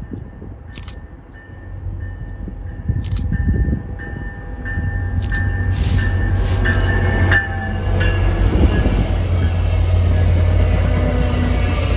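A train approaching and passing: a low locomotive rumble grows louder over the first several seconds and then holds steady, with a high ringing tone repeating above it and a few short hisses in the middle.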